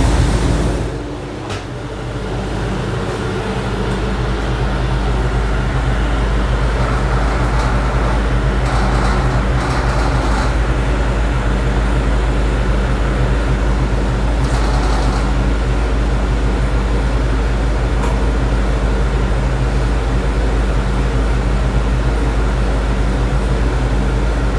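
Ford 460 big-block V8 on an Edelbrock Pro-Flow 4 fuel injection, idling steadily on an engine dyno between power pulls. The level dips about a second in and then holds steady.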